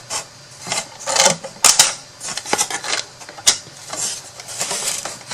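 Thin wooden craft-box pieces being handled and fitted together, tab into slot: irregular clicks and taps mixed with short scrapes, with sharp knocks about a second and a half in and again about three and a half seconds in.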